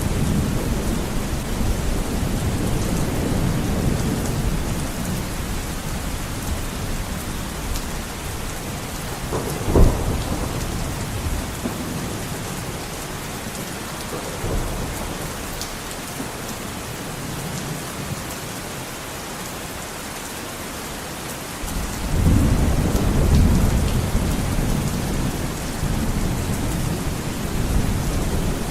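Heavy rain beating on a window pane, a steady hiss, under a low rumbling that dies away through the middle and swells again about three quarters of the way in. A single sharp crack sounds about ten seconds in.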